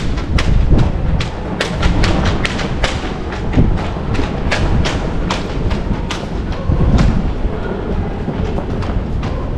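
Footsteps walking at a steady pace, about two or three steps a second, over a constant low rumble.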